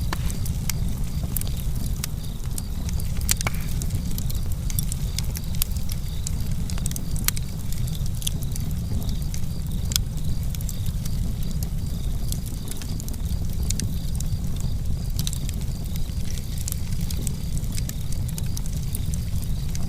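Wood fire burning in a stove, crackling with frequent sharp pops over a steady low rumble.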